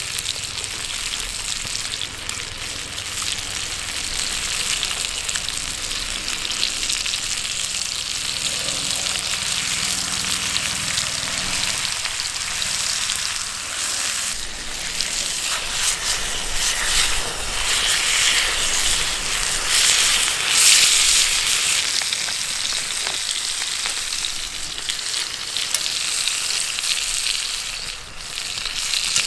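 Marinated chicken (dak-galbi) frying in a pan with a steady sizzle, swelling louder for a few seconds about two-thirds of the way through.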